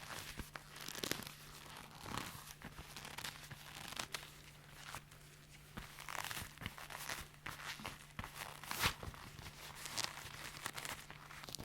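Leather being squeezed and handled up close, creaking and rustling in irregular crackly strokes with a few sharper clicks, over a faint steady hum.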